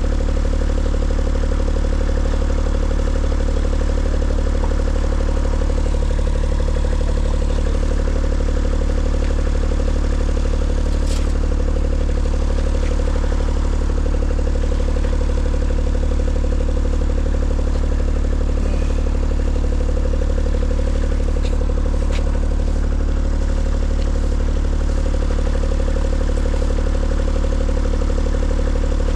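An engine running steadily at a constant speed, with a few faint clicks.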